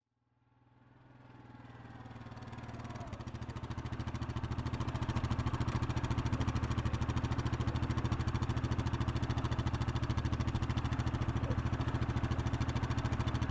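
An engine running steadily at an even idle, with a fast, even pulse. It fades in from silence over the first few seconds, then holds level.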